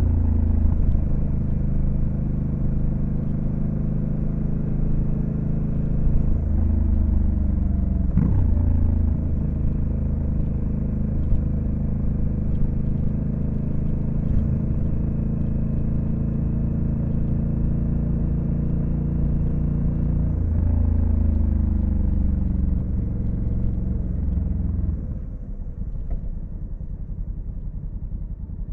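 Honda Africa Twin CRF1100L's parallel-twin engine pulling at steady revs on the move, with a brief break in its note about eight seconds in, like a gear change. After about twenty seconds the revs fall away, and near the end the engine drops much quieter as the throttle is closed.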